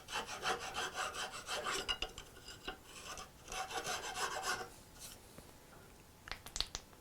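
A hand tool scraping across wood in quick, short, repeated strokes, in two runs with a pause between. A few sharp clicks follow near the end.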